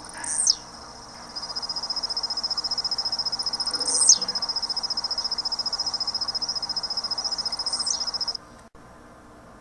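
Bird song: a rapid high trill held at one pitch for about seven seconds, crossed three times by quick downward-sweeping whistles, and breaking off near the end.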